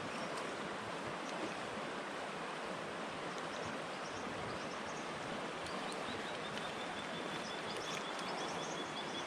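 River water flowing steadily, with faint chirps above it and, from about six seconds in, a high, rapid trill held at one pitch.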